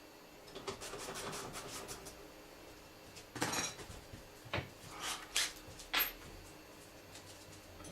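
Metal tools and parts clinking and rattling, with several separate sharp knocks and clinks in the second half.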